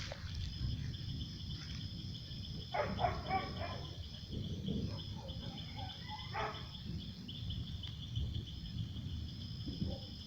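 Insects trilling steadily in a fast pulsing chirr, with a dog barking briefly about three seconds in and again around six and a half seconds, over low background noise.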